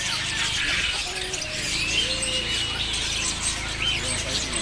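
A mixed chorus of many caged songbirds chirping and whistling over one another, with one long, even whistle about two seconds in.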